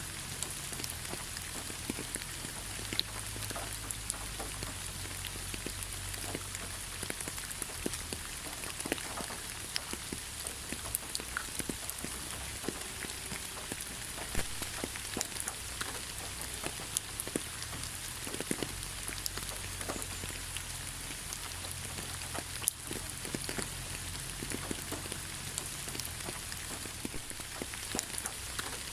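Steady rain falling, with many individual drops pattering and ticking close by over a continuous hiss.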